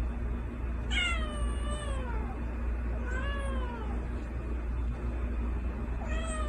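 A cat meowing three times, each meow drawn out and falling in pitch; the first, about a second in, is the longest, and the last comes near the end.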